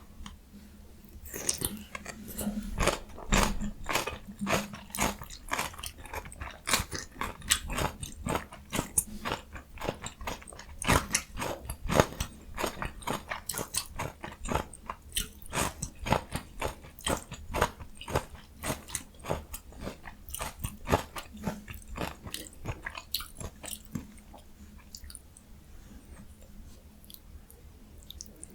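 Close-miked chewing of a jjajang ramyun and yeolmu (young summer radish) kimchi meal: a dense run of crisp, crunchy bites and mouth clicks for about twenty seconds, thinning to softer chewing near the end.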